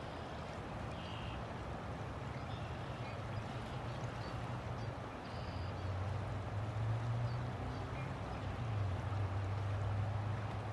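River water flowing in a steady rush, with a low rumble that grows louder about halfway through and a few faint short high chirps.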